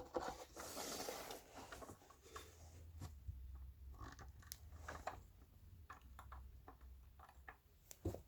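Faint handling noises from taking apart a subwoofer: a sharp click at the start, a scraping rustle about a second in, then scattered small clicks and taps over a low rumble.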